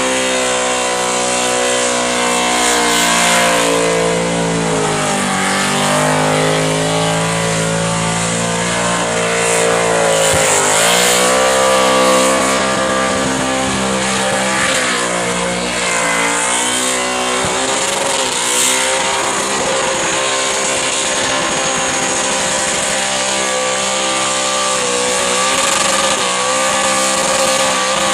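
Car engine held at high revs through a burnout, the revs dipping and climbing again twice (about five and ten seconds in), over a continuous hiss of spinning tyres.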